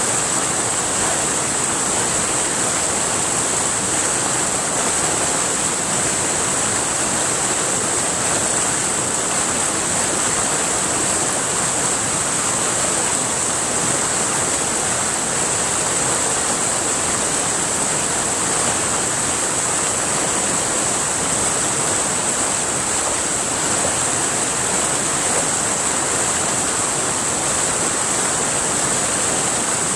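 River water flowing steadily over rocks, a constant, even rushing with no breaks.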